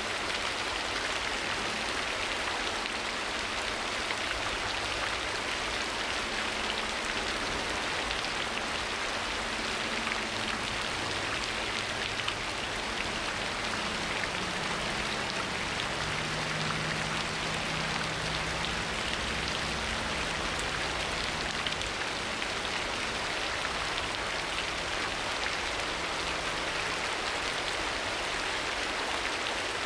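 Steady rain falling, an even dense patter of drops, with a faint low hum in the middle stretch.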